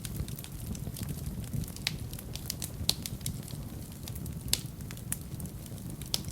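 Wood fire burning in a fireplace: a steady low rumble of flames with irregular sharp crackles and pops, a few louder pops standing out.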